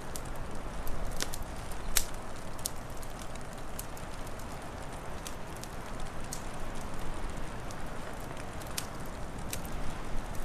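Wood fire crackling, with a steady hiss of flame and irregular sharp pops, the loudest about two seconds in.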